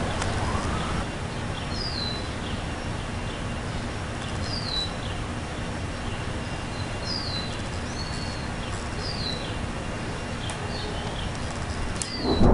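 A bird repeats a short, falling chirp every two to three seconds over steady low background noise, while a siren fades out in the first second. Just before the end, a loud thunderclap from the dry thunderstorm crashes in.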